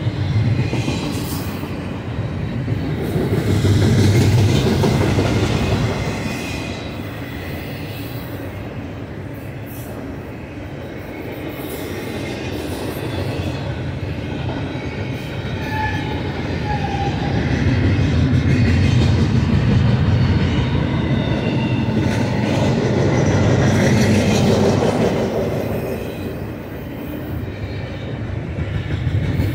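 Double-stack container well cars of a long BNSF freight train rolling past: a steady rumble of steel wheels on rail that swells and eases twice. A faint wheel squeal comes briefly around the middle.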